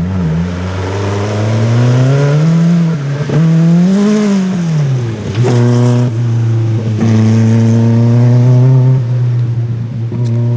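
Historic rally car engine running hard on a stage, its pitch rising and falling with throttle and gear changes, dipping sharply about five seconds in, then holding high and steady.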